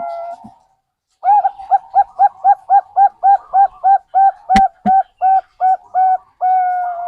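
Zebra dove (Bangkok perkutut) song: a held coo fades out just after the start, then after a short pause comes a quick run of short hooked coos, about three a second, ending on a longer held coo. Two sharp clicks come close together about halfway through.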